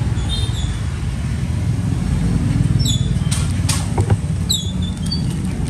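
Steady low rumble of road traffic, with a few sharp clicks and short high chirps about halfway through.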